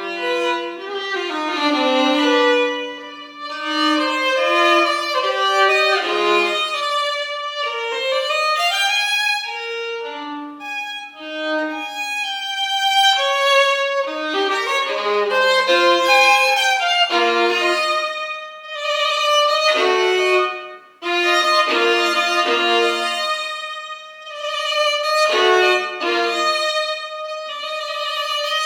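Violin playing unaccompanied, moving through quick melodic runs broken by chords of several notes bowed at once.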